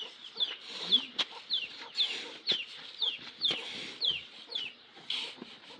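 Chicks peeping over and over: short, high cheeps that fall in pitch, about two a second. A few knocks and scraping sounds come in between.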